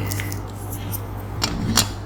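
Close-miked clicking and scratching of toothpicks, with a couple of sharp clicks near the end, over a steady low hum.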